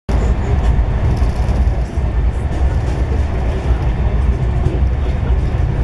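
Steady low running rumble inside a passenger coach of the Gatimaan Express travelling at about 160 km/h.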